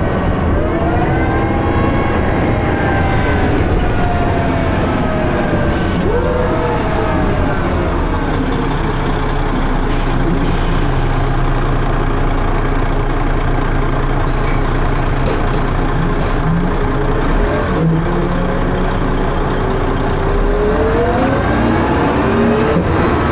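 Dennis Arrow double-decker bus's diesel engine and ZF automatic gearbox heard on board. The bus pulls away and shifts up, with a transmission whine that rises and falls through the gear changes. It then runs steadily at speed and accelerates again, the whine rising near the end.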